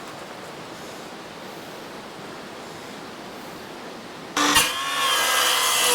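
Steady rushing of the creek at a low level. About four and a half seconds in there is a sharp knock, then a power drill starts running at a steady pitch, working on the pine floorboards.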